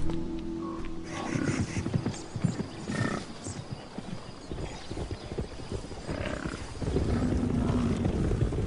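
Hooves of an American bison herd on the move: many irregular thuds and clops, with a few short grunting calls among them.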